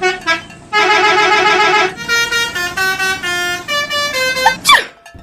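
Bus telolet horn playing a melody: a fast warbling run of notes, then a string of short held notes stepping up and down, ending in a quick pitch sweep.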